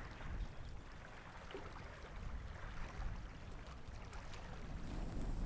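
Wind rumbling and buffeting on the microphone, over faint lapping of sea water.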